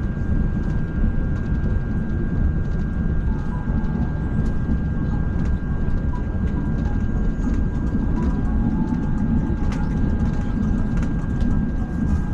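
ETS electric train running at speed, heard from inside the carriage: a steady low rumble with a thin, steady high whine over it.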